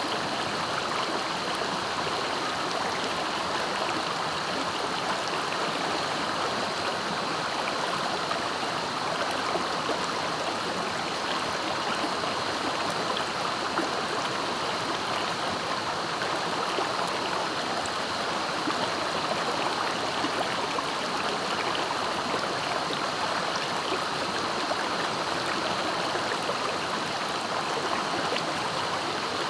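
Clear, swift river water rushing steadily over its bed, an even unbroken flow of sound.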